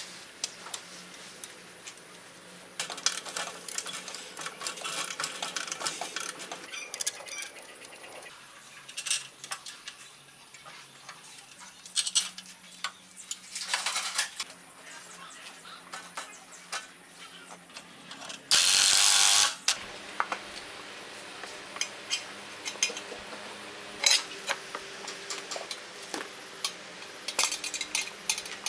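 Metal tools and motorcycle parts clinking and clicking against each other during hands-on workshop work, with a loud hiss lasting about a second roughly two-thirds of the way through.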